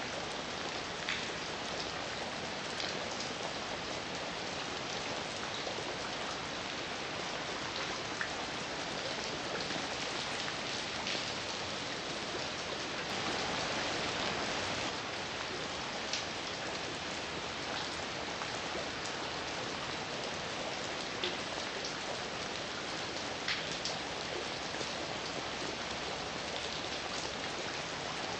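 Heavy rain falling steadily, a dense even hiss with scattered sharper drips standing out, swelling a little for a couple of seconds near the middle.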